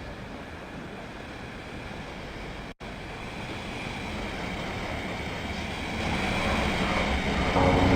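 Train approaching: the rumble of rolling stock grows steadily louder, with a brief break in the sound about three seconds in. Near the end the steady drone of the 2TE116 twin-section diesel locomotive's engines comes in on top.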